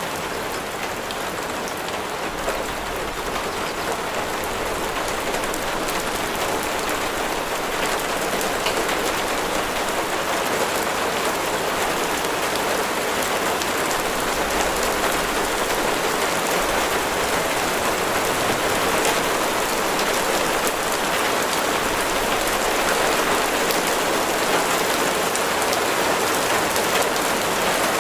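Steady heavy rain falling on a surface, a dense even hiss with fine drop patter, growing slightly louder over the stretch.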